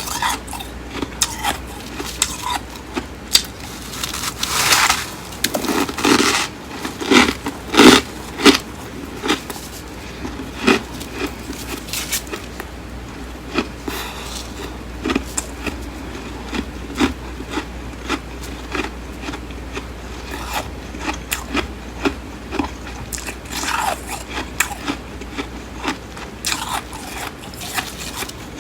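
Close-up bites and chewing of flaky, crisp humidifier freezer frost: crunches and crackles, heaviest in the first third, then a slower run of single crunches.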